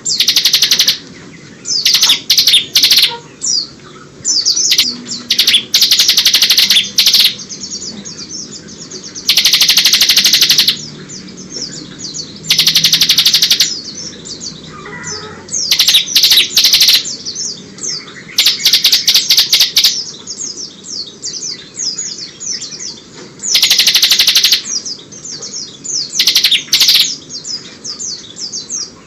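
Bar-winged prinia (ciblek) singing loud, rapid trilled phrases of a second or so, repeated every few seconds, with shorter chirps between. This is the continuous 'ngebren' song, filled in with phrases borrowed from the oriental white-eye (pleci).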